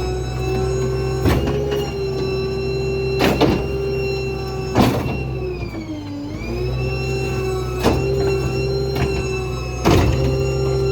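Ford F-550 New Way Diamondback rear-load garbage truck running with its hydraulics engaged, a steady whine over a low drone. The pitch sags briefly about six seconds in, then recovers. About five sharp clanks and bangs of dumped debris being loaded into the hopper.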